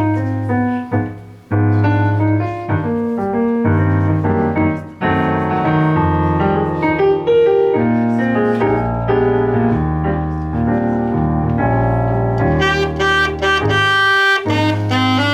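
Instrumental jazz music: a saxophone playing the melody over piano and a low bass line, with brighter sustained saxophone notes near the end.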